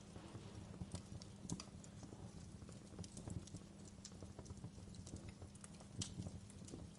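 Wood fire crackling in a fireplace: irregular sharp pops and snaps, the loudest about a second and a half in and again near the end, over a low steady rumble.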